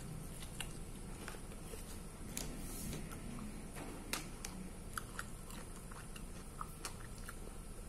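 A person biting and chewing stewed chicken off the bone, eaten by hand, with scattered short sharp mouth clicks.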